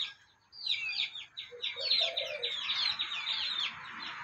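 A rapid run of short, high-pitched bird chirps, each note sliding downward. It starts about half a second in and stops shortly before the end.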